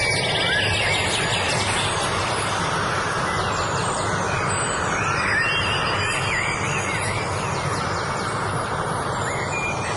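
Birds singing over a steady rushing background noise; short warbling phrases come at the start, again about five seconds in, and near the end.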